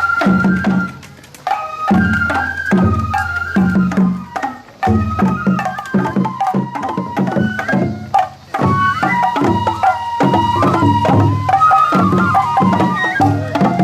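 Japanese festival hayashi music: a bamboo flute melody over repeated drum beats, playing in phrases with brief breaks, the accompaniment to a shishimai lion dance.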